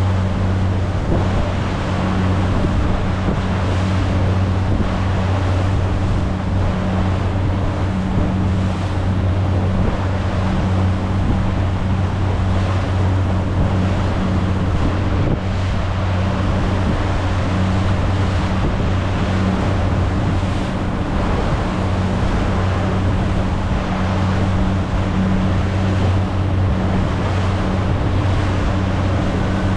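A rigid inflatable speedboat's engine running at a steady pitch while under way, with water rushing past the hull and wind buffeting the microphone.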